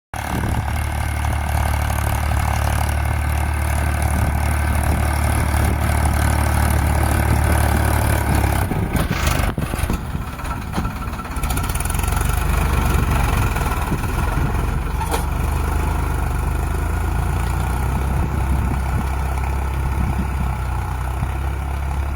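Tractor diesel engine running steadily, with a deep, even hum; its note changes about nine seconds in, turns uneven for a couple of seconds, then settles again.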